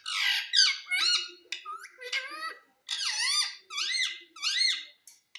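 Pet parrot calling: a quick run of short, high squeaky calls, each sweeping up and down in pitch, about two a second.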